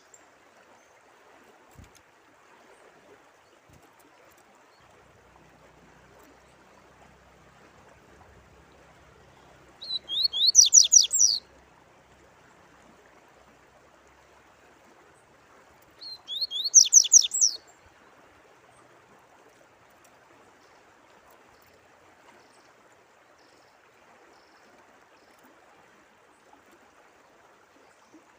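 A songbird singing two short phrases, each a fast run of high, downslurred notes lasting about a second and a half, with a pause of several seconds between them. Underneath is a steady sound of running water.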